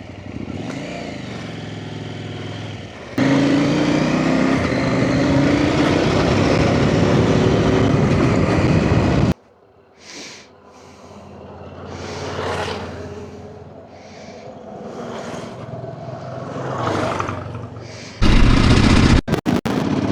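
Off-road motorcycle engine running, getting louder and higher in pitch about three seconds in. About nine seconds in it cuts off abruptly to a much quieter engine sound that rises and falls, then turns loud again near the end.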